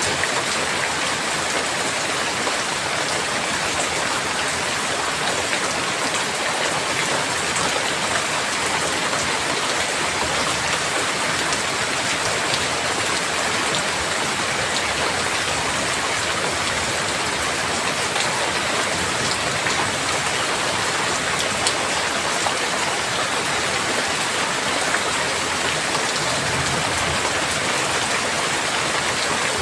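Steady rain falling in a dense, even hiss of drops, with scattered individual drop ticks on a surface.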